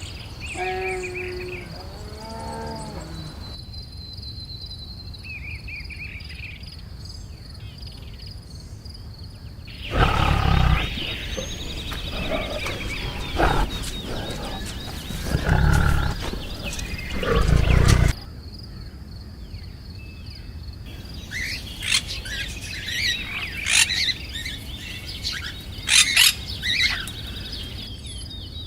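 A lion roaring in several long, loud roars, with bird calls before and a burst of bird chirps after.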